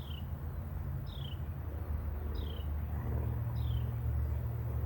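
A bird repeating a short, high, downward-sliding call about once a second, five times, over a steady low rumble.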